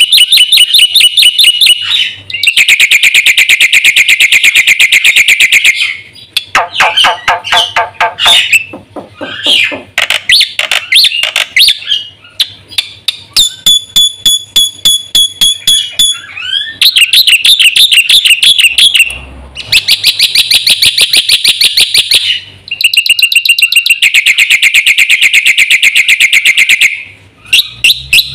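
Black-winged myna (jalak putih) singing loud and without pause: long phrases of very rapid, chattering repeated notes alternate with varied whistles and calls, a full, learned-phrase-rich song.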